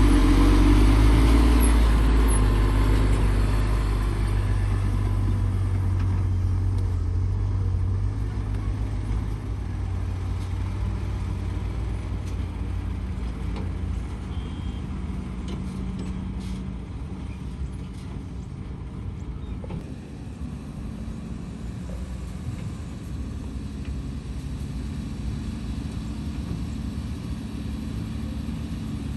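Heavy diesel engines of construction machinery running, loudest at the start and fading over the first several seconds, then a steady lower engine rumble.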